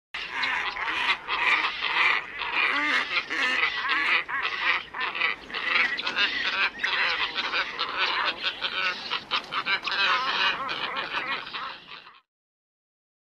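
A flock of black ibises calling: many harsh, overlapping croaking calls packed closely together. They cut off abruptly about a second before the end.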